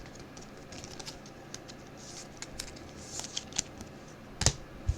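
Trading cards being handled and flipped through: a string of light, irregular clicks and ticks, with one sharper tap about four and a half seconds in.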